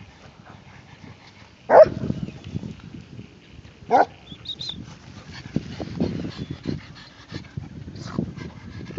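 A dog gives two short, loud barks about two seconds apart, with quieter low rustling noises in between.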